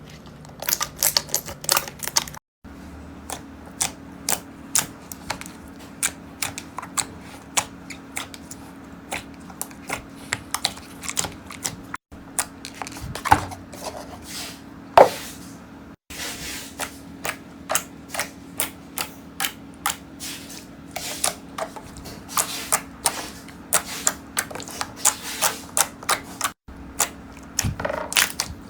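Slime being pressed, squeezed and poked, giving off a run of crisp clicks and crackles at an uneven pace, several a second at times, over a faint steady hum. The sound breaks off abruptly a few times where one clip cuts to the next.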